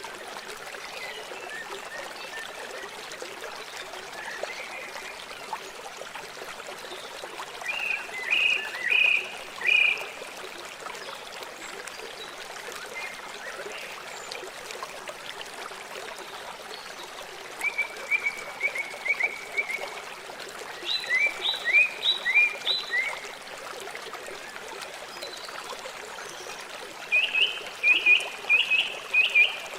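River water flowing steadily, with four bursts of rapid, repeated short high calls from an animal breaking through it.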